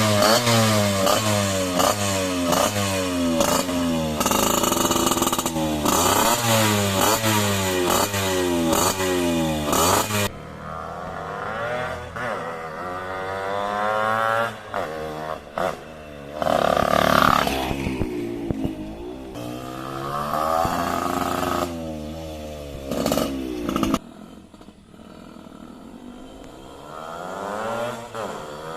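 Suzuki Fiz R two-stroke motorcycle engine revved through an underbelly Cobra racing exhaust: a quick run of throttle blips for about ten seconds, then slower, softer revs, dropping to idle a few seconds before the end and picking up again at the very end.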